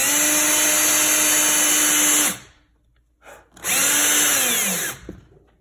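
Power drill-driver running screws into a floor outlet box's faceplate in two bursts: a steady run of about two seconds, then after a pause a shorter run that winds down in pitch as it stops.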